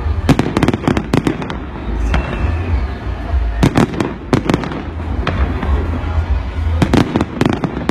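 Aerial fireworks going off in rapid volleys of sharp bangs, three clusters a few seconds apart, over a steady low rumble.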